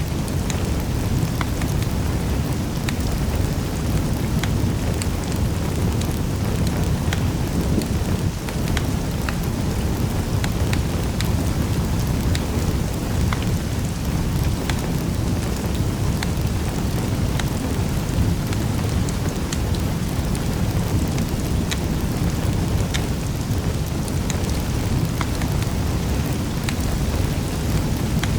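Wood fire in a fireplace crackling, a steady low rumble of flames with scattered sharp pops and snaps.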